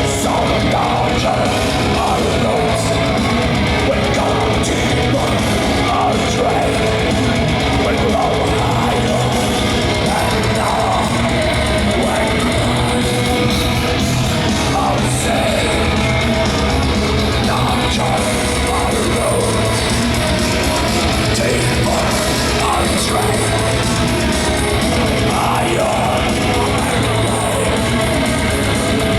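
Live heavy metal band playing loudly and without a break: distorted guitars, bass and drums, with a harsh, shouted vocal over them.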